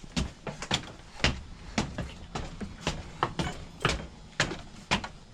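Footsteps climbing a flight of stairs, about two steps a second, each a sharp knocking thud.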